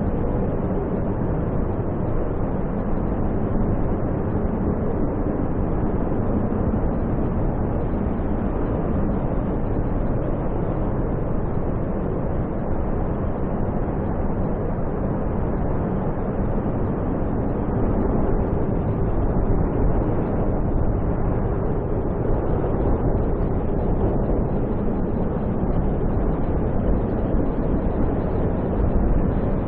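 Snowstorm wind blowing steadily, a deep, even noise with no separate gusts or knocks standing out.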